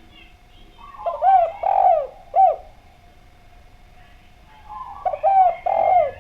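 Spotted dove (derkuku) cooing: a phrase of four hooting coos about a second in, the third held longest, and a second phrase starting about five seconds in.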